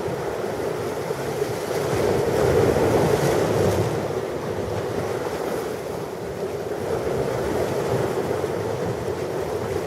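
Ocean waves breaking and washing on a shore, a continuous rushing wash that swells about two to four seconds in and then eases.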